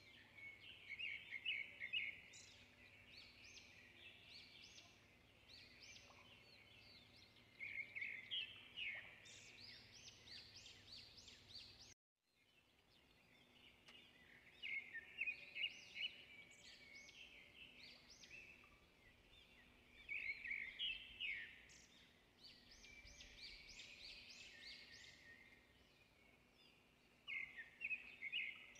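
Faint birds chirping in quick high runs over a low background hiss, cutting out for a moment near the middle.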